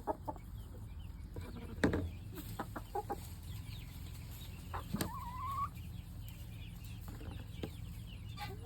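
Chickens clucking in short scattered calls, with faint high peeping of baby chicks throughout. One longer, slightly rising call comes about five seconds in, and a few sharp knocks fall near two and five seconds.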